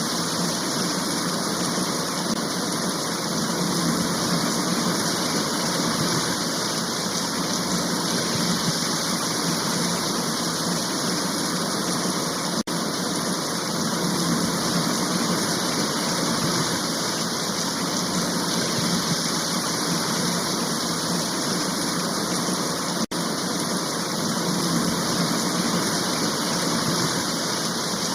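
Heavy rain shower falling, a steady even hiss of rain. It drops out for an instant twice, about a third of the way in and again near the end.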